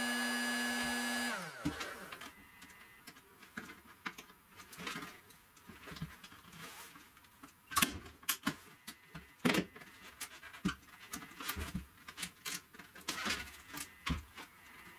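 A small electric tool's motor runs steadily and is switched off, winding down in pitch about a second and a half in. Then come irregular clicks, taps and rustling as parts and materials are handled on the bench.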